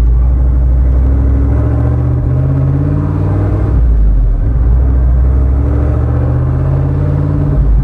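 Vehicle engine accelerating hard under load. Its pitch climbs, drops suddenly about three and a half seconds in as it shifts gear, then climbs again through the next gear.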